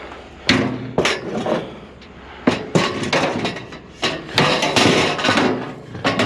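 Scrap items being handled and piled up: a run of about ten hard knocks and clanks, busiest a little past the middle.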